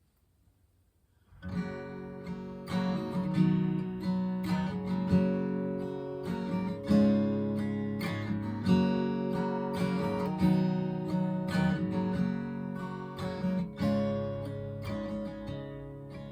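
Acoustic guitar strumming an instrumental song intro, coming in about a second in after near silence.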